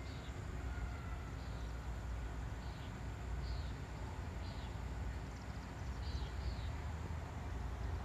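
A bird chirping, short falling chirps about one a second, over a steady low outdoor rumble.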